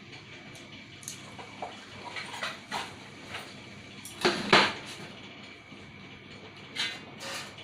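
Scattered clinks and knocks of water-pump parts and hand tools being handled during disassembly, with the loudest clatter about four and a half seconds in and two more knocks near the end.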